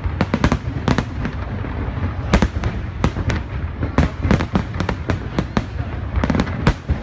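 Aerial fireworks display: a rapid, irregular series of sharp bangs, several a second, over a continuous low rumble, with a dense flurry of bangs near the end.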